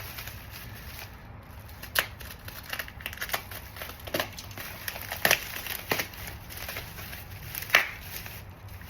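Protective packaging around a new car door handle being opened and handled: irregular crinkling with scattered sharp clicks, the loudest near the end.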